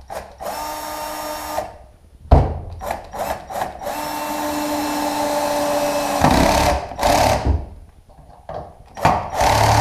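Cordless drill-driver running in several short bursts and one longer run of about two seconds, driving screws into wood. A sharp knock comes about two seconds in, with a few clicks after it.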